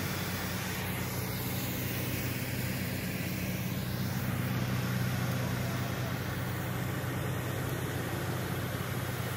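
A vehicle engine running steadily at idle: an even low hum with a hiss over it.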